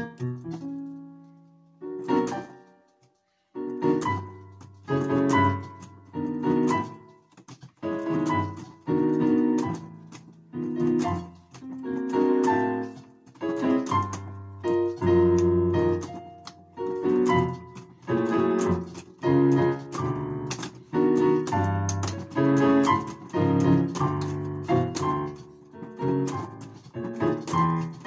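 Solo piano playing dense chords, struck again and again in quick clusters that each ring and fade, with a brief break about three seconds in.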